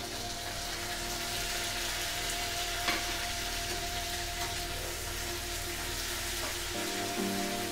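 Tomatoes sizzling steadily as they fry in hot ghee with spices in a kadhai for a dal tadka, with a single light click about three seconds in.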